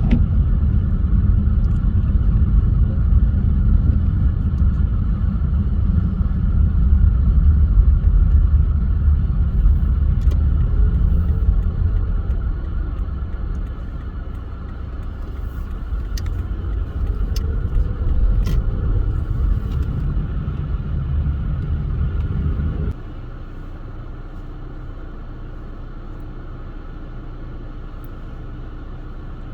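Car driving on a snowy road: steady low rumble of tyres and engine. About two-thirds of the way in, the rumble drops suddenly to a quieter steady hum.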